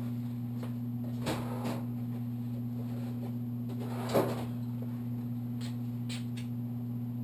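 Two knocks and a few light clicks from handling tools or engine parts on a workbench, over a steady low hum.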